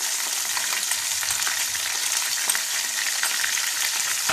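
Hot oil sizzling steadily with fine crackles in a non-stick wok as chopped onions with freshly added ginger-garlic and green chilli paste fry, the bhuna stage that cooks out the raw taste.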